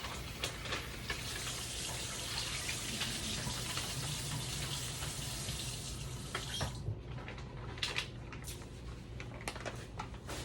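Water running from a kitchen faucet, turned off about seven seconds in, followed by a few small clicks and handling sounds.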